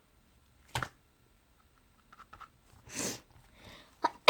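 Slime being handled: one sharp pop about a second in, a few faint clicks, then a short airy burst and a louder sharp pop near the end.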